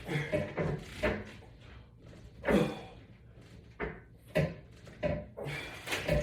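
A series of short knocks and bumps, about ten in six seconds and unevenly spaced, from a resistance-band exercise attachment being worked through repeated pulls.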